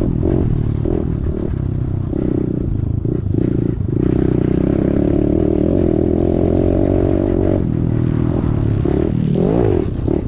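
Kawasaki KLX110 single-cylinder four-stroke engine under race throttle. It is chopped on and off for the first few seconds, then held at high revs for several seconds, drops off near eight seconds, and revs up again near the end.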